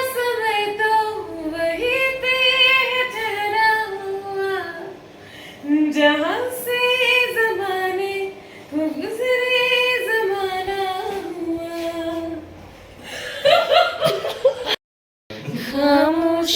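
A female voice singing unaccompanied, slow phrases of long held notes with gliding pitch, pausing between phrases; the sound cuts out completely for a moment near the end.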